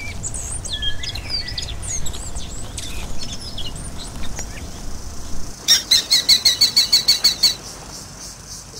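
Birds chirping with short high calls. About six seconds in comes a loud, rapid run of identical high notes, about seven a second, lasting nearly two seconds.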